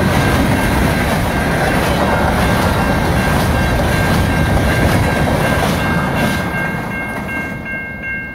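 Freight train of covered hopper cars rolling past at a grade crossing, wheels rumbling and clacking over the rails, with the crossing bell ringing steadily over it. The rumble fades over the last couple of seconds as the end of the train clears the crossing.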